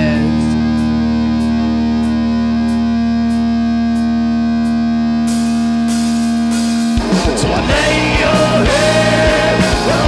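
Rock band playing live: a held electric guitar chord rings on steadily with light ticks about twice a second, then about seven seconds in the full band with drums comes in.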